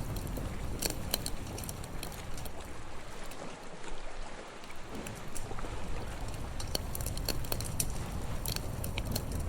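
Campfire crackling with scattered sharp pops, over a steady low wash of seaside waves that thins out briefly around the middle.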